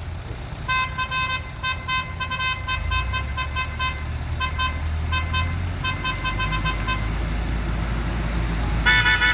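A vehicle horn tapped in a rapid, uneven string of short toots for about six seconds, then one louder toot near the end, over the low running of a diesel engine.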